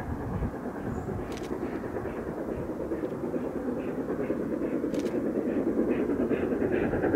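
A train running along the track: a steady rumble that grows slowly louder, with a few faint sharp clicks.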